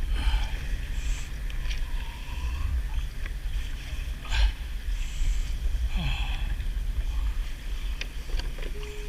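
Wind rumbling on the microphone aboard a kayak at sea, with a few light knocks and splashy water sounds now and then.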